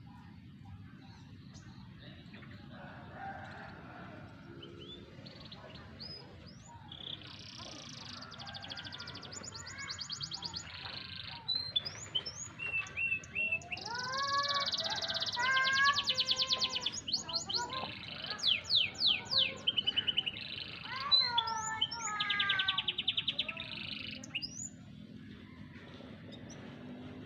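A young canary, four to five months old, singing a long song of fast trills, rapid rolls and rising whistled notes. It starts about six seconds in, is loudest in the middle, and stops a couple of seconds before the end.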